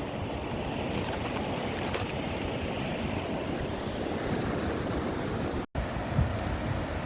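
Sea surf washing on a beach, a steady rushing, with wind buffeting the microphone. The sound cuts out for an instant near the end, then carries on.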